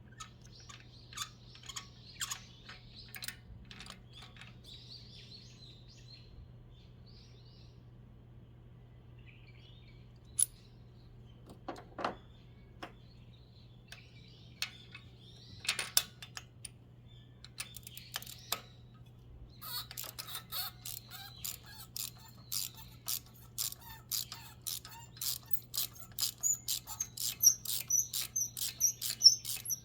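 Scattered clicks and knocks, then from about two-thirds of the way in a fast, even run of clicks that grows louder, over a steady low hum.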